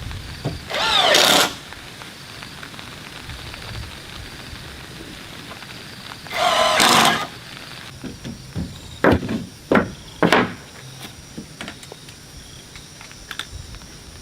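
Building work with wood and hand tools: two loud, drawn-out squeals, like wood or a nail being wrenched, then a quick series of sharp knocks on wood.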